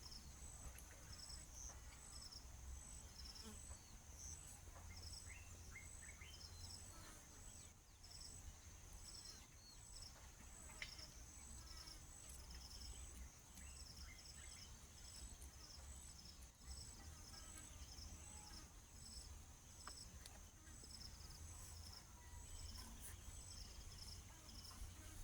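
Faint insects chirping: a steady high-pitched buzz with regularly pulsed chirps, a little under two a second. A few faint short bird chirps come in about five to seven seconds in, over a low rumble.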